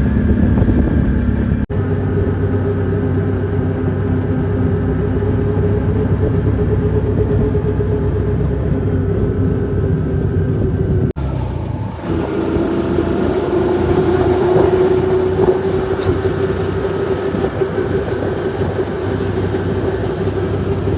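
Motor vehicle engine running steadily. The sound breaks off sharply twice, about 2 and 11 seconds in, and after the second break the engine's pitch sits a little lower.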